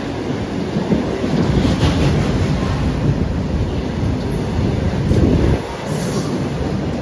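Freight train of high-sided box wagons passing close by at speed: a loud, steady rumble and clatter of steel wheels on the rails, dipping briefly a little over halfway through.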